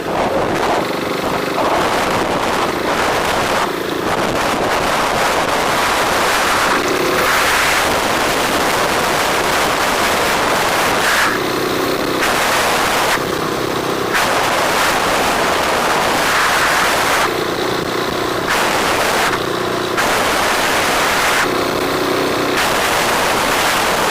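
Riding recording from a moving motorcycle: a loud, steady rush of wind over the microphone, with the engine's low hum showing through in short stretches every second or two.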